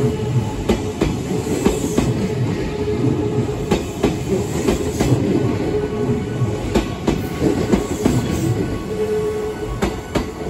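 Kintetsu electric train passing close by, its wheels clacking over rail joints with a loud rumble, while the level-crossing alarm sounds a steady tone.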